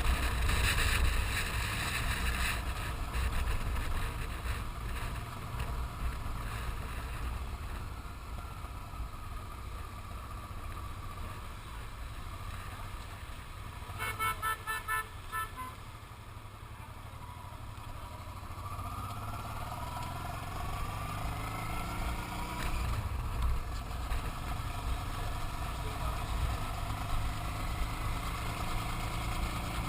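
Motorcycle running on the move with a steady low rumble and wind noise on the microphone. About halfway through there is a quick run of short beeps, and later the engine pitch rises as the bike accelerates.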